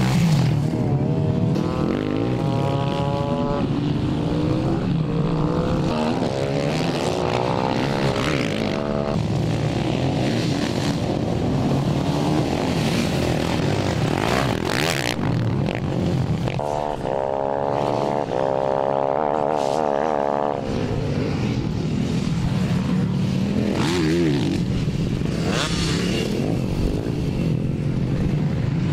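Engines of small racing motorcycles (minimotos and pitbikes) running on a track, with a steady drone beneath and several runs where an engine's pitch climbs as a bike accelerates and passes.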